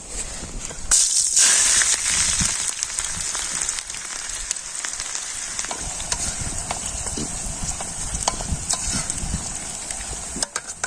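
Sliced onions hitting hot oil in a pan: a sudden loud sizzle about a second in, settling into a steady frying sizzle with small crackles.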